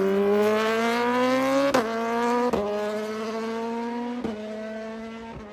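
A drag-racing car accelerating hard away through the gears: the engine note climbs steadily, then drops at three upshifts about two, two and a half and four and a quarter seconds in, growing fainter as the car pulls away.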